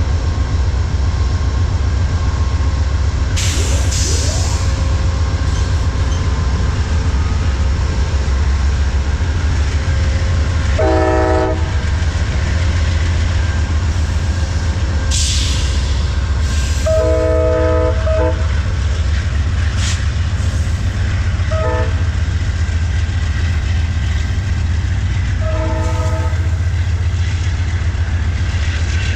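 The California Zephyr's GE P42DC diesel locomotives rumble steadily as the train pulls out. The multi-chime train horn sounds four blasts: two long, one very short, then one a little longer. A few short bursts of hiss are also heard.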